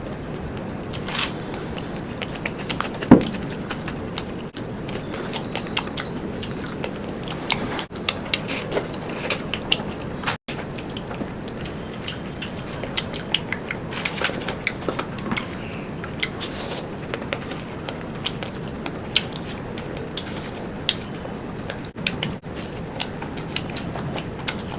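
Close-up eating sounds: chewing and biting food, with many small clicks and crunches over a steady hiss, and one sharp louder click about three seconds in.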